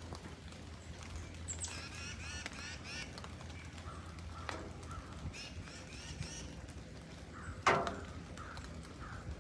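Birds calling in the woods: two quick runs of short, harsh, pitched notes, then one loud harsh call near the end.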